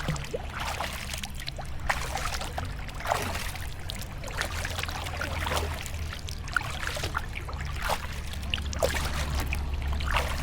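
Water splashing and trickling around a kayak in many small, irregular splashes, over a steady low rumble.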